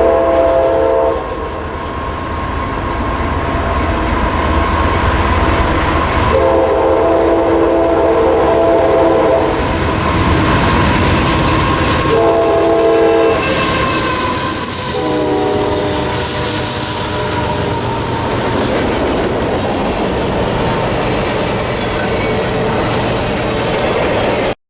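A passing train's locomotive sounds its multi-chime air horn in the grade-crossing pattern: long, long, short, long blasts, each a held chord of several notes. After the horn, the train rolls by with a steady rushing rumble and wheels clicking over rail joints.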